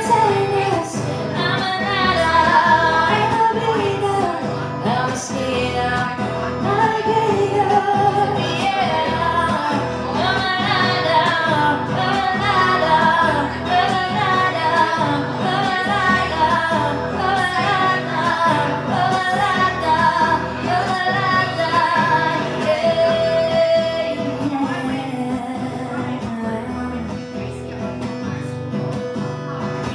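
Live music: a woman singing over guitar accompaniment with a steady beat.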